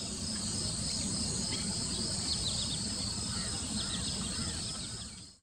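Outdoor ambience of insects droning steadily at a high pitch, with faint short bird chirps over a low background rumble; it fades in at the start and fades out near the end.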